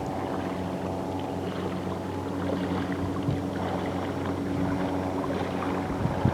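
A steady low mechanical hum, one pitch held throughout, with a few short knocks near the end.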